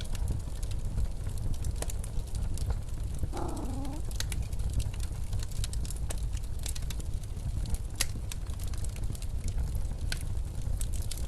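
Wood fire crackling with scattered sharp pops over a steady low rumble of blizzard wind. A short pitched sound comes about three seconds in.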